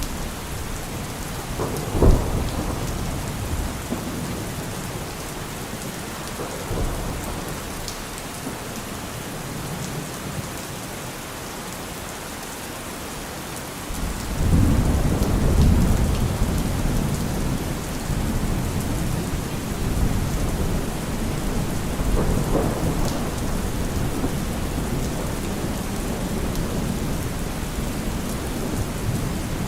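Steady rain falling, with thunder: a sharp crack about two seconds in, then a long low rumble that starts about halfway through, and a weaker rumble later.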